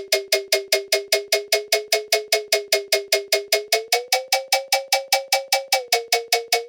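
A short, bell-like tonal percussion hit repeating rapidly, about five times a second, run through a frequency shifter. Its pitch steps up about four seconds in and drops slightly near the end.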